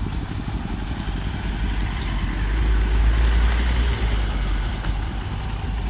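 A motor vehicle's engine running, growing louder for a moment around the middle.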